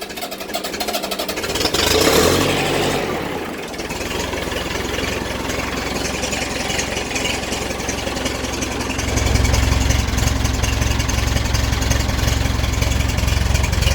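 1983 Massey Ferguson 265's four-cylinder Perkins diesel cold-starting without glow plugs: it cranks on the starter, catches with a loud surge about two seconds in, then runs steadily and gets louder about nine seconds in. It is a hard cold start at around freezing.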